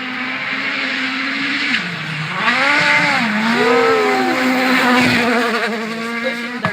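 Rally car engine running at high revs, its pitch dipping and climbing back twice as the throttle is worked through a corner, with tyre squeal.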